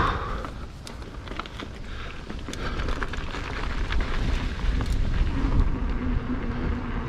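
Mountain bike rolling down a dirt trail: tyre rumble and wind on the microphone, with short clicks and rattles over bumps, getting louder as it picks up speed.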